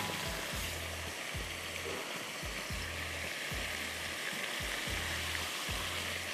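Cornflour-coated prawns deep-frying in hot oil, a steady sizzle as fresh pieces are dropped in. Background music with a steady low beat runs underneath.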